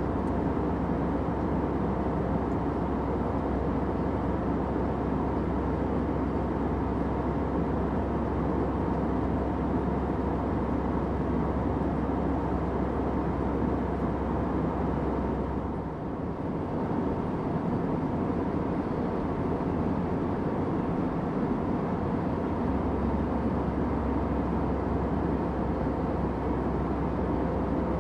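Airliner cabin noise: a steady, low drone of jet engines and rushing air with a faint hum, dipping briefly about halfway through.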